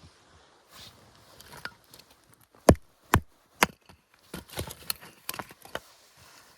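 Firewood being chopped: three hard blows about half a second apart, then a quicker run of lighter knocks and cracks.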